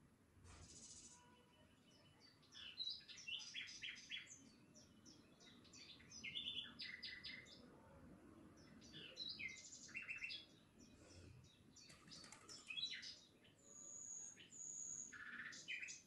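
Small birds chirping in quick runs of short, high notes, with two brief high whistles near the end.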